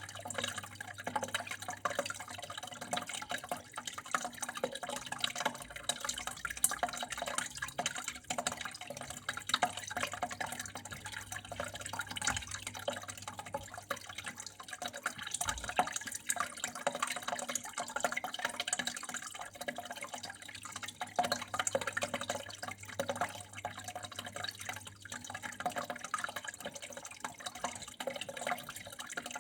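Water flowing and trickling, with many small irregular splashes and drips, and a faint steady hum underneath.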